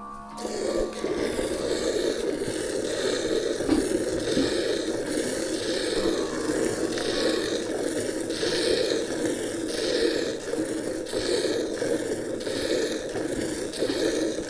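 Water buffalo being milked by hand: milk squirts into a pail in a steady, regular rhythm of strokes about a second apart.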